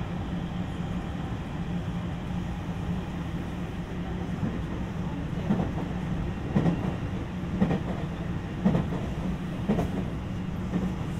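Interior running sound of a JR West 225 series 5000 electric train: a steady rumble and hum. From about halfway on, the wheels give a regular clickety-clack over rail joints, roughly once a second.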